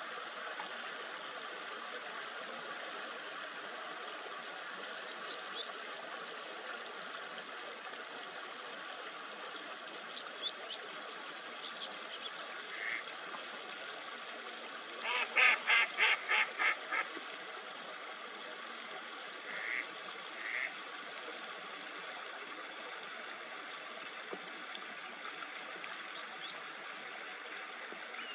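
Eastern spot-billed duck giving a run of about seven loud quacks midway, over a steady babbling stream. Small birds add a rapid high trill shortly before and a few short chirps.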